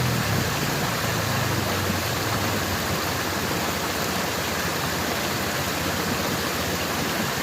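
Waterfall: falling water rushing with a steady, even roar.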